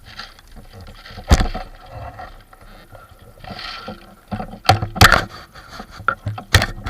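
Rustling and scraping of movement through forest undergrowth, broken by several sharp cracks: one loud crack about a second in and a cluster of them in the second half.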